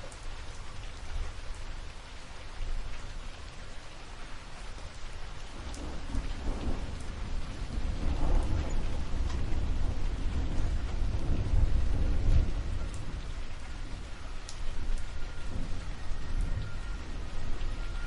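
Steady rain with a long roll of thunder that builds about a third of the way in, is loudest in the middle, and slowly fades toward the end.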